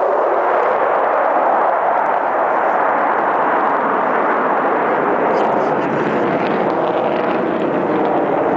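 Jet fighters' engines overhead: a loud, steady rushing noise that grows a little louder and higher about two-thirds of the way through.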